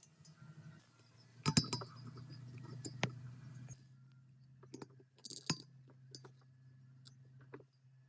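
Metal parts and hand tools clinking and tapping during workshop work on the generator: a few sharp clinks with lighter ticks between, over a low steady hum.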